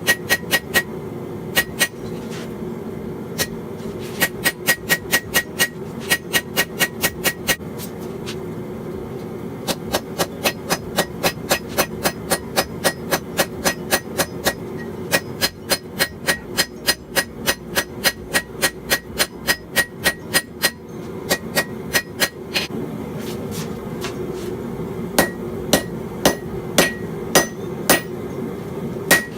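Hammer blows forging steel on an anvil, in runs of about three to four strikes a second with short pauses between runs, some strikes ringing. A steady hum runs underneath.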